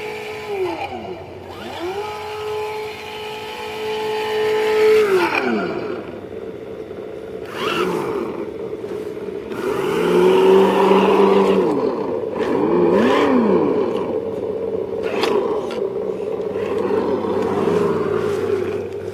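Simulated engine sound from an ESS-One sound kit's speaker on an RC rock crawler, its pitch held steady, then dropping and climbing again several times as the throttle changes. A few short clicks and clatters from the truck come in between.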